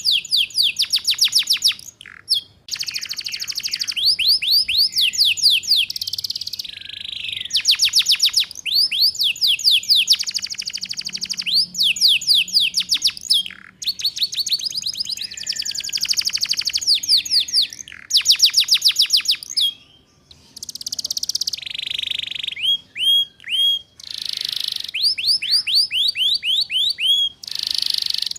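Canary singing a continuous ngeriwik-style song: run after run of very fast, evenly repeated downslurred notes, changing to a new trill every second or two with brief breaks. A few slower, separate slurred notes come near the end.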